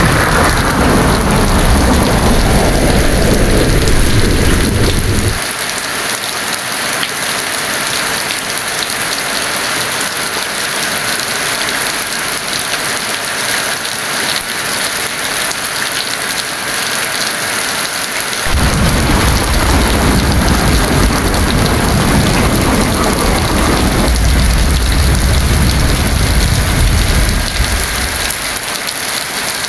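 Heavy, steady rain with two rolls of thunder: a deep rumble at the start that cuts off abruptly about five seconds in, and a second that begins a little past the middle, swells and ends shortly before the end.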